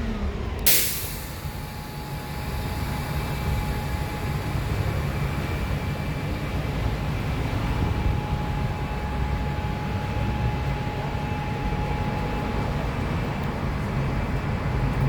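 Low steady rumble of a train at the station, with a thin steady whine over it, after a short sharp hiss less than a second in.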